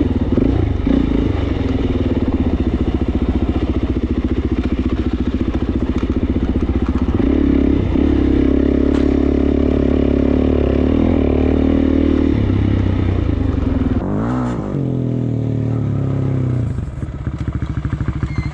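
Suzuki DR-Z400S single-cylinder four-stroke dirt bike engine running steadily under throttle. About three-quarters of the way through it eases off with a shift in pitch, and it runs quieter near the end.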